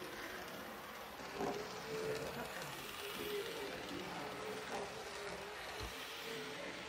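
Small motors of Bachmann HO scale Gandy Dancer handcar models running along the track: a faint, steady whir with a few light clicks.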